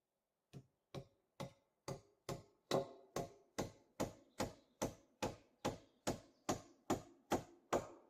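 A run of about eighteen hard knocks, evenly spaced at roughly two and a half a second, each with a short ring. They grow louder over the first two seconds, then hold steady.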